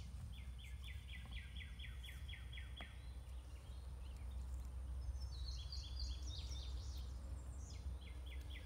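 A songbird singing: a run of quick, evenly repeated notes, about five a second, then a higher phrase of varied notes, over a steady low rumble of outdoor background noise.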